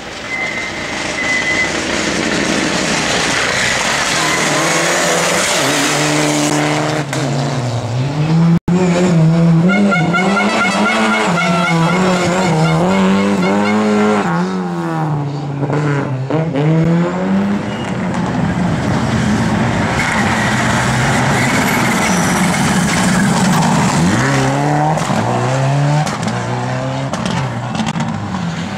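Rally cars driven hard on a stage, engines revving up and dropping back over and over as they lift, brake and accelerate, with some tyre squeal. The sound cuts out abruptly for an instant about nine seconds in.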